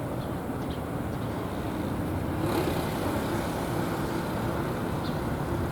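Steady rumble of road traffic, swelling louder about two and a half seconds in as a vehicle passes, with a few faint, short, high chirps.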